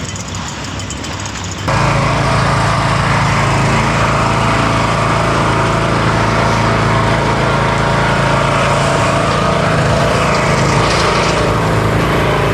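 Small gasoline engine running steadily, starting suddenly about two seconds in.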